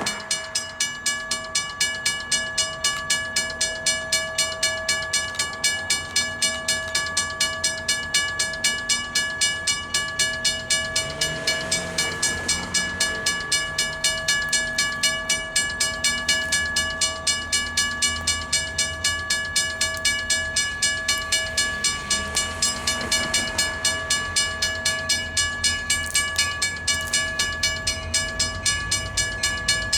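Vintage railroad crossing bell ringing steadily with rapid, evenly spaced strokes, about two to three a second, as the crossing signal is activated. A diesel locomotive's low rumble builds underneath toward the end.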